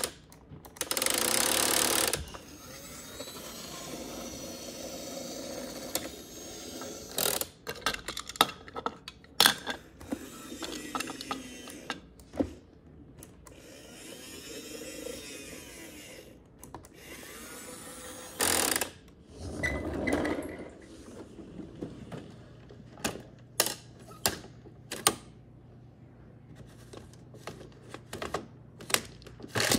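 Plastic toy garbage trucks being handled and worked: irregular clicks, knocks and rattles of moving plastic parts. Two short louder bursts of noise come about a second in and about two-thirds of the way through.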